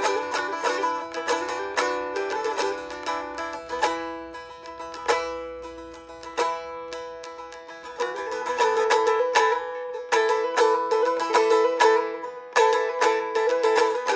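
A solo plucked string instrument playing an improvised melody in quick picked notes over a steady ringing drone note. The playing turns softer about four seconds in, then picks up louder again at about eight seconds.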